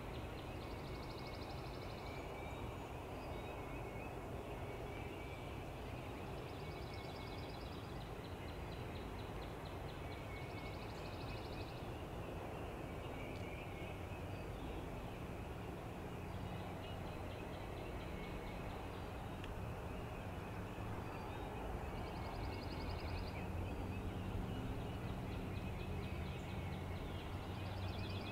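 Wild turkey gobbler gobbling repeatedly in the distance, faint. Now and then a small songbird's high, rapid trill repeats every few seconds.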